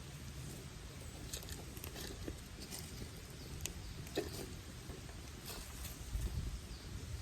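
Wood campfire crackling, with irregular sharp pops and snaps of burning sticks over a low steady rumble.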